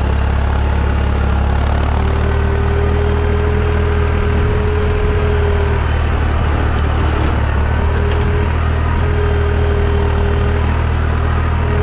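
Deutz 55F tractor's diesel engine running steadily under load while pulling a sweep cultivator through the soil, with a whine that comes and goes several times.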